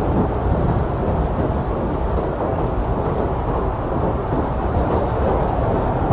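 Strong blizzard wind blowing steadily, a dense low rushing noise with a deep rumble underneath.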